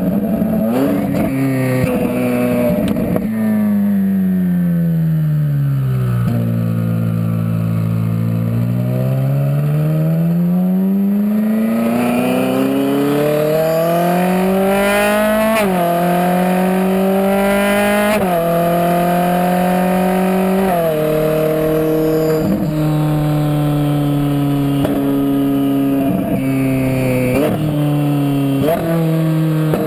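The twin-turbocharged V8 of a Hennessey HPE700 Ferrari 458 Spider on the move. The engine note falls as the car slows, sits low for a few seconds, then climbs as it accelerates. Around the middle it drops in steps at three quick gear changes, then holds a fairly steady note to the end.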